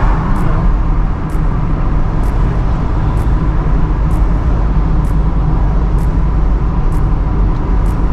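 Steady engine and road rumble of a car being driven, heard from inside the cabin, with faint ticks about once a second.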